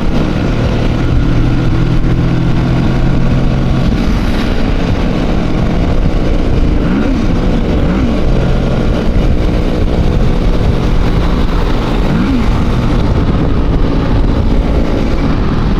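Motorcycle engine running steadily at road speed, with wind rushing over the microphone; a few short rising-and-falling engine notes come and go partway through.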